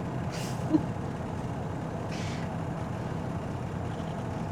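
Semi truck's diesel engine idling steadily, heard from inside the cab, with two short hisses of air about half a second and two seconds in. A brief sharp knock just under a second in is the loudest sound.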